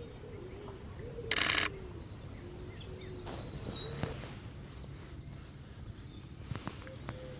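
A short burst of rapid shutter clicks from a Canon EOS-1D X DSLR firing in continuous mode, about a second in. Small birds chirp repeatedly just after it.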